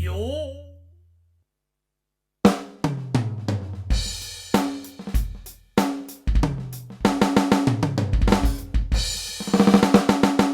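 Yamaha DTX720K electronic drum kit, its DTX700-series module playing a drum-kit voice. After a fading electronic tone and a short pause, a beat starts about two and a half seconds in: kick, snare and pitched tom hits, with cymbals washing in near the end.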